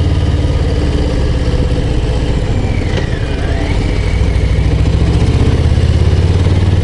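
Harley-Davidson Low Rider ST's Milwaukee-Eight 117 V-twin running under way. It eases off briefly about three seconds in, then pulls harder with the revs rising near the end.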